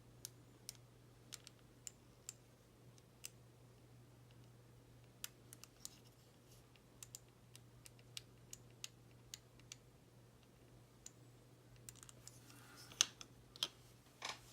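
Light, irregular clicks of small model-kit parts being handled and fitted together, with a brief burst of rustling and a sharper click near the end.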